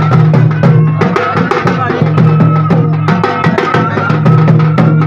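Traditional music with fast, dense drumming, many strikes a second, over a strong low held tone and a wavering melody line above it.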